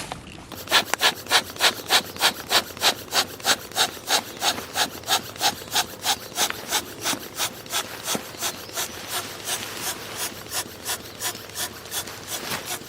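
Hand saw cutting wood in quick, regular back-and-forth strokes, about three or four a second, loudest over the first few seconds and a little softer after that.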